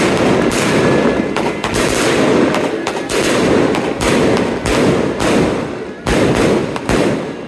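Strings of firecrackers going off in a dense, rapid crackle like machine-gun fire, easing briefly near the end before a few more sharp bangs.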